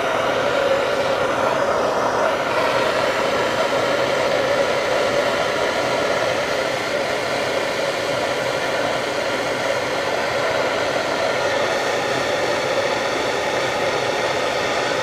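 Gas torch flame running steadily, heating a seized bolt to free it; it comes on suddenly with a sharp pop at lighting.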